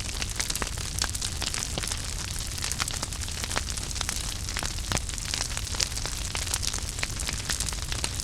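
Wood fire burning in a fireplace: a steady hiss and low rumble with frequent sharp crackles and pops, several a second.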